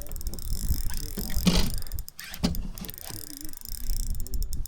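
Fishing reel clicking while a large walleye is played on the line, with a fast run of clicks near the end.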